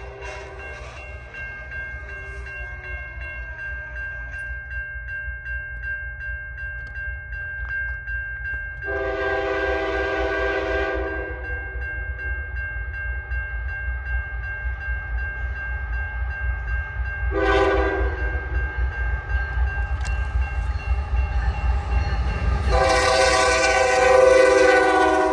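CN GEVO 2919's K5HL air horn sounding the grade-crossing signal, with a long blast fading out at the start, a long blast, a short one, and a final long blast, the sign of the train reaching the crossing. Under the horn, the low rumble of the approaching locomotives grows steadily louder.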